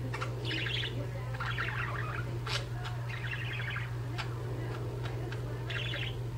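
Pet budgerigars chirping and chattering in four short bursts, with a few sharp taps, over a steady low hum.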